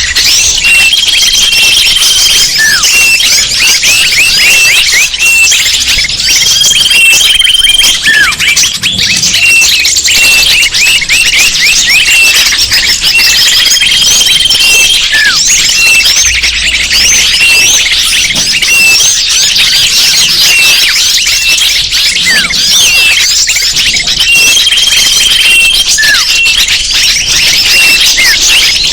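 Dense chorus of many small birds chirping and trilling without a break, a recording used as a bird lure to draw in wild birds. A short held whistle recurs about every seven seconds, with now and then a single falling whistle.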